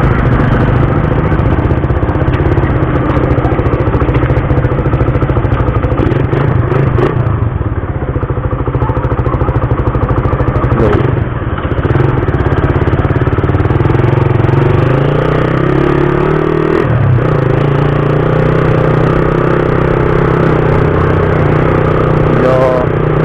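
Suzuki Raider 150's single-cylinder four-stroke engine running as the motorcycle is ridden. Its pitch climbs for a few seconds past the middle, then drops sharply.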